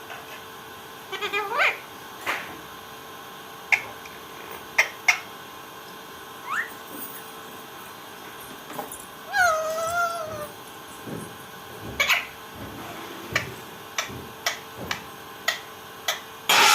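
Parrot vocalising: scattered short clicks and brief rising chirps, with one longer wavering, meow-like call about nine seconds in.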